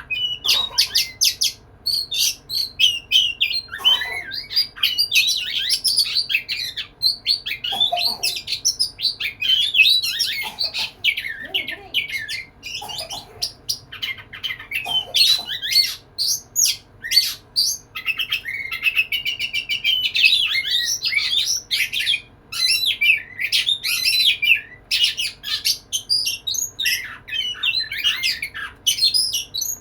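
Oriental magpie-robin (kacer) in full song: a long, unbroken run of quick, varied whistles, chirps and harsher notes, the male's courtship song to a female.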